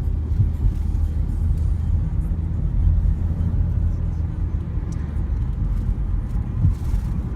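Steady low rumble of a moving vehicle: engine and road noise while driving.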